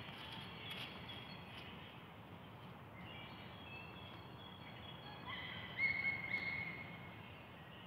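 Songbirds singing over a steady low background rumble, with short high whistled notes throughout and a louder held whistle about six seconds in.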